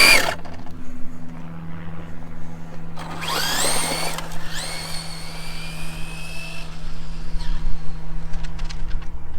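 Losi 22S '69 Camaro RC drag car's brushless electric motor whining. A short burst ends just after the start; then the motor sweeps sharply up in pitch on a launch about three seconds in and keeps rising more slowly as the car pulls away, fading out after about three more seconds. A steady low hum runs underneath.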